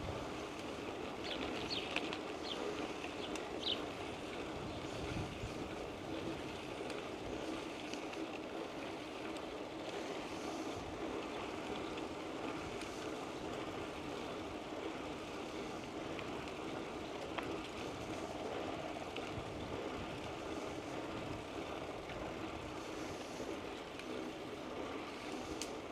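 Steady rolling noise of a bicycle ride: tyres on the pavement and the bike running, with wind at the microphone. A few short, faint high chirps come in the first few seconds.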